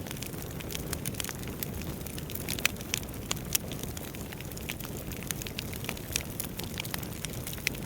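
Wood fire burning in a fireplace: a steady low rustle of flames with frequent irregular sharp crackles and pops from the burning logs.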